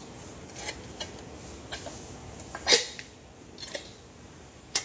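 A few short clicks and knocks of thin sheet-metal exhaust parts being handled, the loudest a little before three seconds in and another sharp one near the end.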